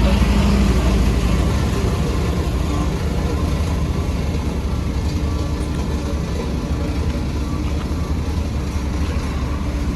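Heavy diesel engine of road-construction machinery running steadily with a low drone, a little louder in the first second and then easing slightly.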